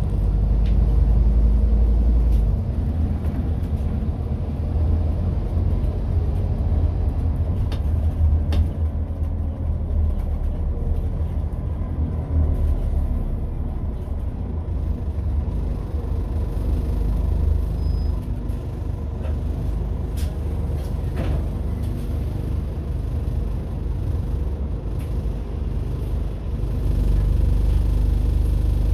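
Scania N230UD double-decker bus running: its five-cylinder diesel gives a steady low rumble, with a few short clicks or rattles.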